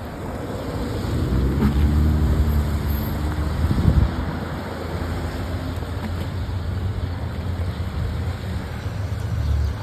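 Car driving on a wet road: a low engine hum under a steady hiss of tyres on wet pavement. The engine sound grows louder for a few seconds, then settles, with a single thump about four seconds in.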